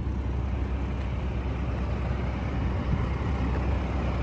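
Mack MP7 inline-six diesel engine of a 2007 Mack CTP713B dump truck idling steadily with a low, even rumble.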